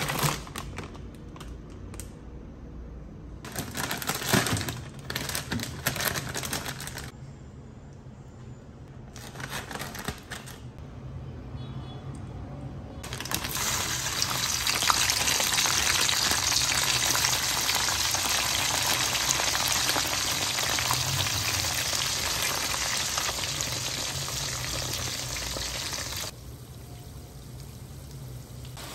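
A plastic bag of frozen french fries rustling in bursts, then, about halfway through, a loud, steady sizzle as the frozen fries go into hot oil in a small pot. The frying turns quieter near the end.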